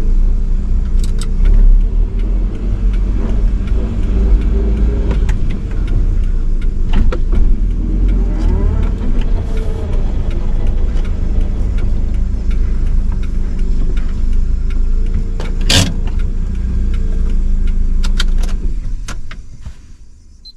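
A 1985 Nissan Sunny B12 running, its steady engine note over a low road rumble, with a few clicks and one sharp click about 16 seconds in. The sound dies away near the end.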